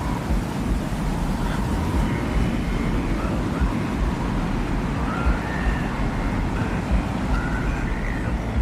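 Sound-designed desert ambience: a steady low rumble of wind-like noise with uneven gusts, and faint, short high whistling tones drifting in and out over it.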